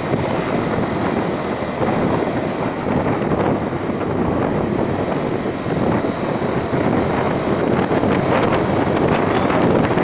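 Wind buffeting the microphone on a moving vehicle during a ride, with rushing road and engine noise underneath.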